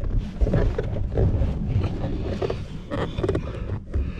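Hands working an electrical wiring connector loose from a module: irregular plastic clicks, knocks and scraping with handling rustle.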